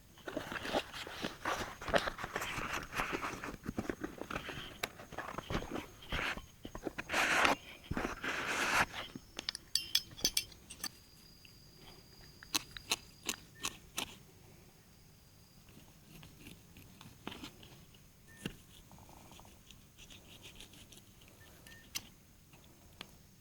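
Eating at close range: chewing and biting into grilled pork, with crunching and handling noises. It is busy for the first nine seconds or so, then thins out to scattered clicks.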